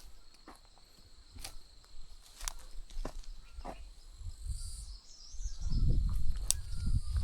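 Insects droning on one steady high note, with scattered sharp clicks and a low rumble on the microphone from about five seconds in.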